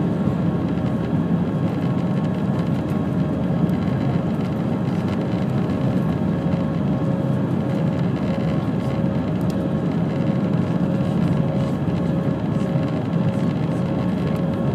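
Airbus A319 jet engines and airflow heard from inside the cabin: a steady drone with a faint, constant hum on top, as the airliner climbs after takeoff.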